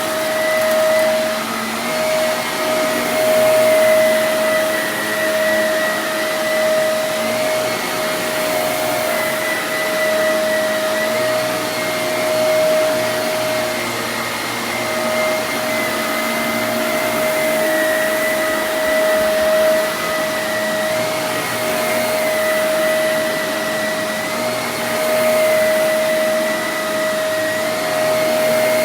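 Vacuum cleaner running steadily with a constant whine, its pitch wavering slightly now and then.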